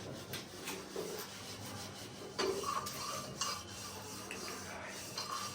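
Light clinks and scrapes of dishes and cutlery as food is eaten, in short scattered clicks, a little busier a couple of seconds in.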